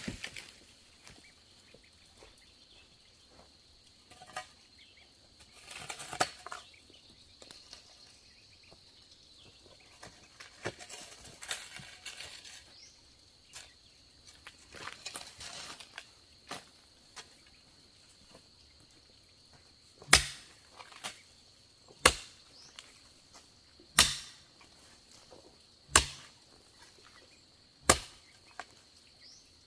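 Bamboo being chopped with a blade: scattered light knocks and rustling, then five sharp, evenly spaced chops about two seconds apart in the second half. A faint steady high insect buzz runs underneath.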